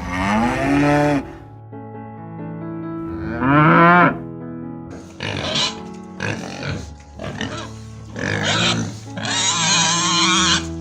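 Farm animals calling over background music: two drawn-out calls that rise and then fall in pitch, one at the start and one about three seconds in, followed by a run of harsh, squealing calls through the second half.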